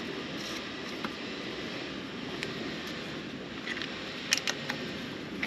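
A wrench tightening a 6 mm clip-on handlebar bolt, heard as a few short sharp metallic clicks about four seconds in, over a steady background rumble.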